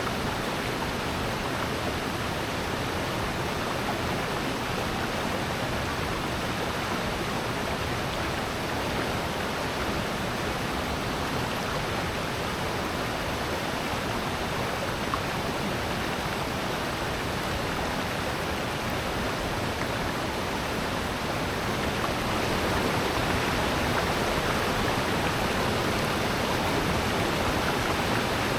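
Water rushing steadily in a valley stream, an even wash of noise that grows a little louder about three-quarters of the way through.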